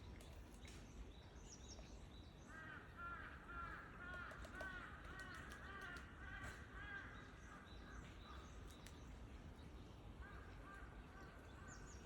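Faint bird calling: a quick series of repeated calls for several seconds, then another run near the end, over a steady outdoor hiss.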